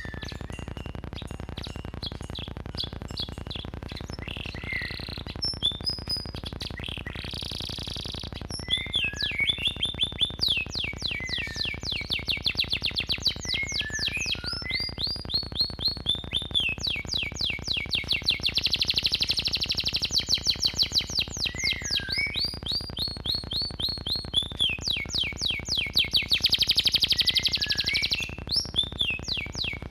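Domestic canary singing a long, unbroken song of rapid trills and whistled notes, the phrases switching every second or two, with dense, loud trills in the middle and again near the end. A steady low hum lies underneath.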